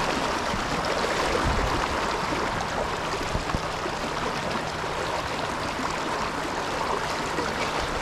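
Steady rush of a fast river current, the Kenai River running high, with a couple of brief low knocks in the first few seconds.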